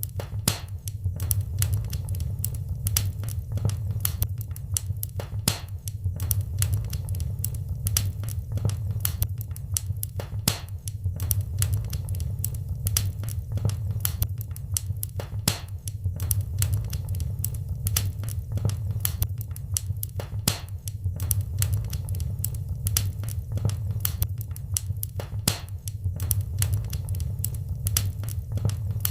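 Wood fire crackling in a fireplace: a dense, irregular stream of sharp pops and snaps over a steady low rumble of the burning fire.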